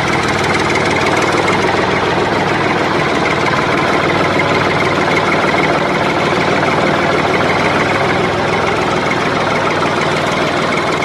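A motor running steadily at a constant speed, starting abruptly.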